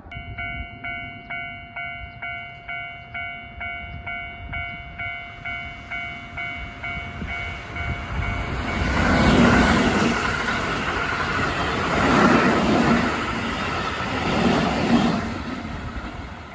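Japanese level-crossing alarm bell ringing in quick repeated electronic strokes. About eight seconds in, a Keihan electric train rushes through the crossing and drowns it out, swelling three times as the cars pass, then fading near the end.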